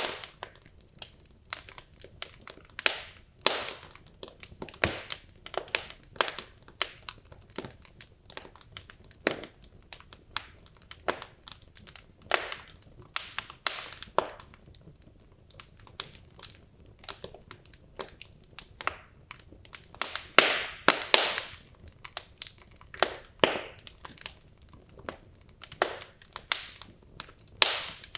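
Wood logs burning in a fireplace, crackling with irregular sharp pops and snaps, a quick cluster of louder crackles about two thirds of the way through.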